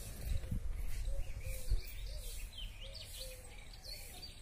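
Birds calling and chirping: a short note repeated about twice a second, with quicker high chirps over it. A few low thumps in the first two seconds are the loudest sounds.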